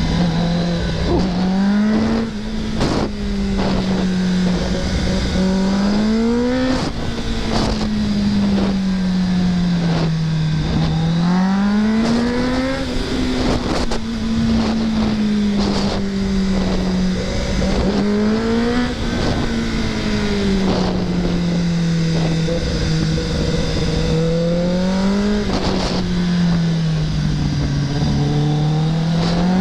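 Kawasaki ZX-10R superbike's inline-four engine at speed. Its pitch climbs and drops again about five times as the throttle is opened and rolled off through a run of corners, over steady wind rush.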